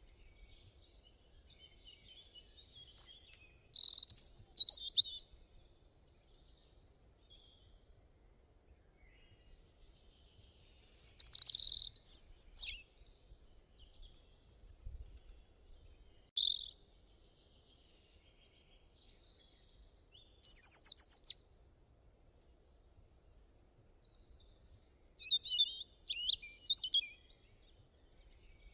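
Wild birds singing and chirping in short bouts of high, rapid notes every few seconds, with quieter stretches between them.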